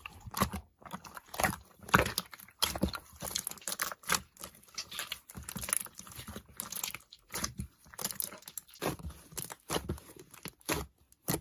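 Typing on a computer keyboard: irregular clicks of the keys, several a second, some louder than others.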